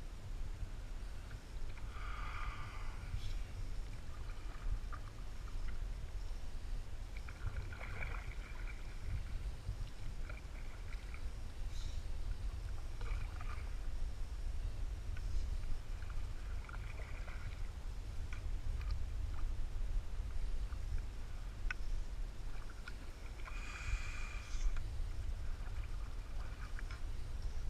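Canoe on the river: a steady low rumble with short, irregular splashes and drips, typical of paddle strokes in the water.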